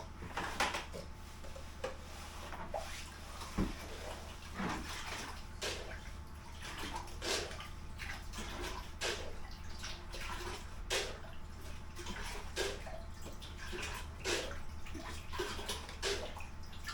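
Water splashing and dripping as leaked water is picked up inside a boat's hull, with irregular sharp knocks and clatters over a steady low hum.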